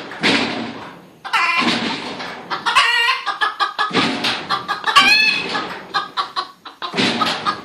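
Chickens clucking, many short calls one after another, with a couple of harsh rushes of noise in the first two seconds.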